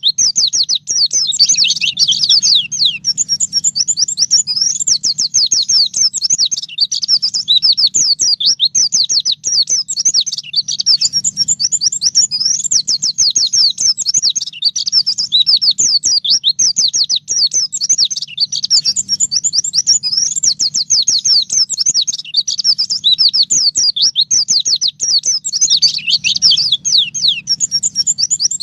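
White-eye (pleci) singing in a fast, unbroken stream of high, thin down-slurred chirps and trills, with no real pauses.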